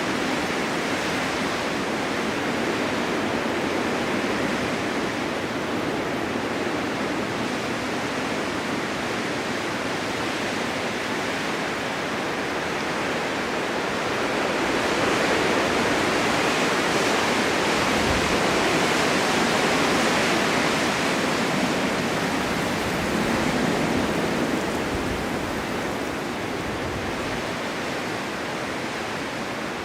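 Blizzard wind driving blowing snow: a steady rushing noise that swells into a stronger gust about halfway through and eases off again. A few brief low rumbles come through near the middle and toward the end.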